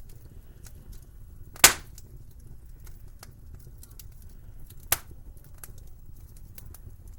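Wood fire crackling in a fireplace: a scatter of small crackles over a low steady rumble, with two sharp pops about three seconds apart, the first the louder.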